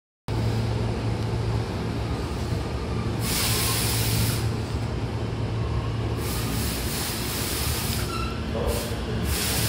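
Hankyu electric trains at a station platform: a steady low hum from the standing car while another train moves along the adjacent track. Several bursts of hissing air come about three seconds in, again around six to eight seconds, and near the end.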